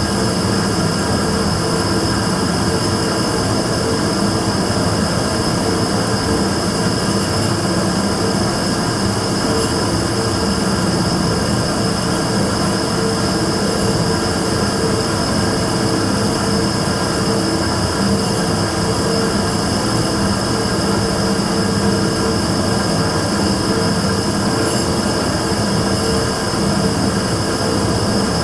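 Immersion tube burner running with a steady roar, a constant low hum and a high whine on top, unchanging throughout: the abnormal noise that the burner is making.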